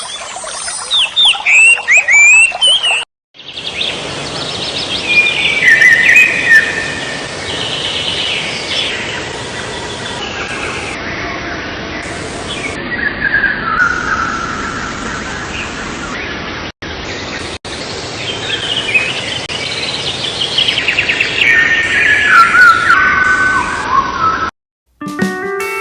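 Birds chirping and singing, with repeated falling trilled phrases over a steady background hiss, broken by a couple of brief dropouts.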